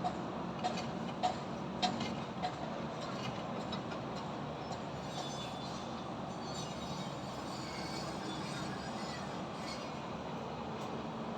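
Steady rumble of city traffic and construction work. Five evenly spaced metallic clanks come in the first couple of seconds, then faint high squeals over the rumble.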